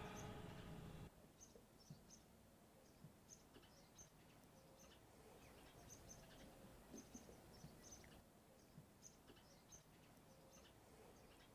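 Faint, scattered short high chirps of small birds over near-silent outdoor ambience, after the tail of a hummed music track ends about a second in.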